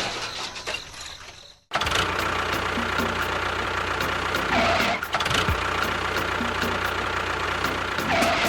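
A steady engine sound, as of a small tractor or bulldozer, starts abruptly about two seconds in and runs on with a low hum. Before it, a sound carried over from the previous moment fades out.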